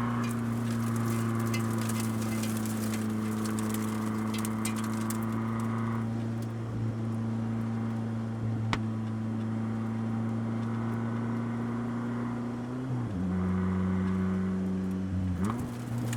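Mini Countryman ALL4 rallycross Supercar engine and exhaust running at steady, held revs, with light crackling ticks in the first few seconds. About thirteen seconds in the revs drop to a lower steady note, then rise back up near the end.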